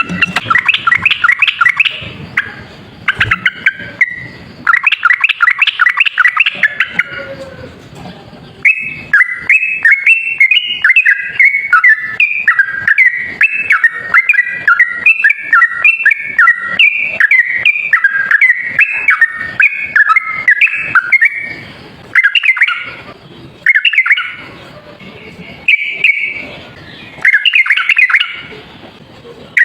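Yellow-vented bulbul (trucuk) singing in fast chattering bursts. About nine seconds in it breaks into a long unbroken run of quick alternating notes lasting some twelve seconds, then returns to shorter bursts.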